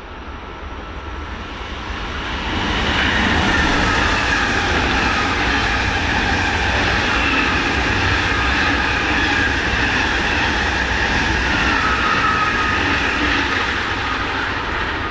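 A train passing close by, building up over the first few seconds and easing off near the end. High tones sweep down and up over the rolling noise.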